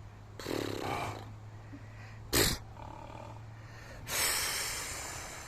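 A horse snorting three times: a fluttering snort just under a second in, a short sharp blast at about two and a half seconds, and a longer breathy blow that fades near the end. These are the alarm snorts of a spooked, agitated horse.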